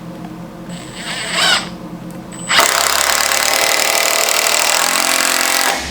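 Power drill running steadily for about three seconds, starting about halfway through and stopping sharply near the end.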